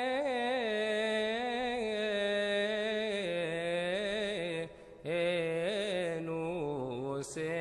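A solo male voice chants a melismatic Coptic Orthodox liturgical hymn in long, ornamented held notes. The pitch steps down about three seconds in, and there is a brief breath pause just before five seconds.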